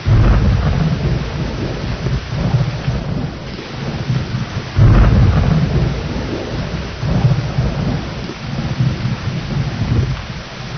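Thunderstorm: steady rain with rolling thunder, a sudden low rumble at the start and a louder clap about five seconds in, each rumbling on for several seconds.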